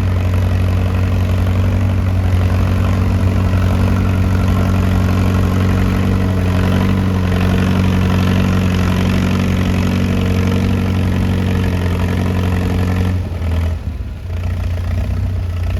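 Antique tractor engine running steadily with a deep, even hum. About 13 seconds in its note drops and wavers briefly before it settles again.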